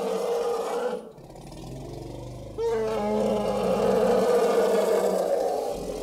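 Asian elephant trumpeting: one long call breaks off about a second in, a quieter low rumble follows, then a second long trumpet starts about two and a half seconds in and runs nearly to the end.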